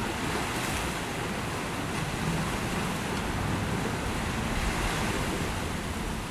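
Sea waves washing on the shore in a steady rush of surf, with some wind on the microphone.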